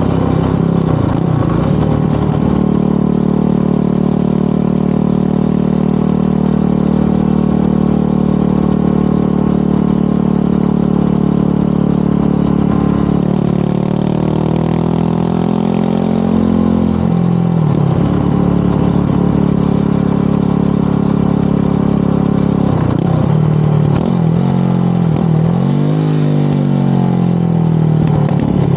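Motorcycle engine running under way at a steady speed. Its pitch climbs about halfway through and drops back sharply, then dips and rises briefly a few more times near the end.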